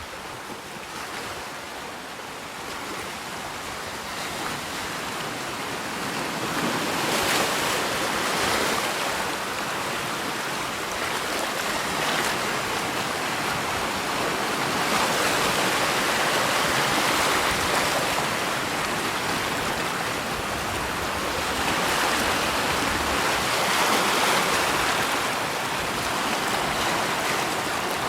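Rushing water, a steady wash of noise that swells louder and eases back every several seconds, like surf waves.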